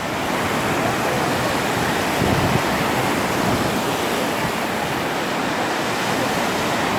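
Steady rush of surf from a rough, stormy sea.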